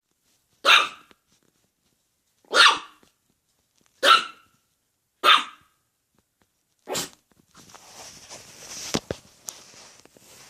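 A dog barking five times, single barks spaced one to two seconds apart, followed by a few seconds of quieter rustling with a sharp click partway through.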